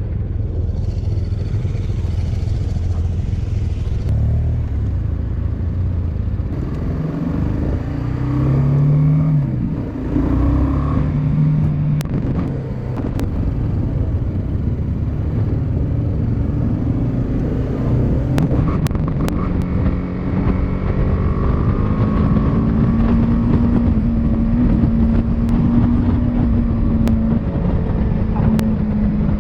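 Motorcycle engine running under way, heard from on the bike over a low steady rumble. The engine's pitch climbs and drops about a third of the way in, then holds steady over the last third.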